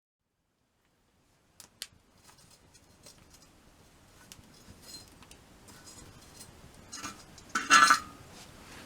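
Scattered small clicks and light metallic clinks that begin about a second and a half in, with a louder clattering burst near the end.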